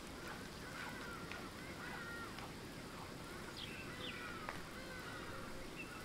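Birds chirping and calling, many short repeated calls over a steady low background noise.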